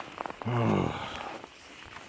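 A man's short wordless vocal sound, like a hum or grunt, falling in pitch about half a second in, with a few footsteps on the trail around it.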